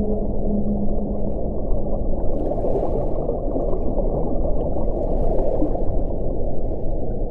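Wind blowing steadily with a deep, low sound. A faint low tone carried in the wind dies away about a second in, and two brief, slightly brighter gusts come through about two and a half and five seconds in.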